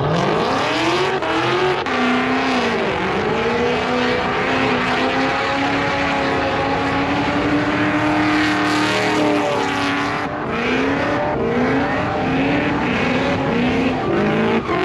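Truck engine revving hard: it climbs, holds at high revs for several seconds, then rises and drops in a quick run of short revs near the end.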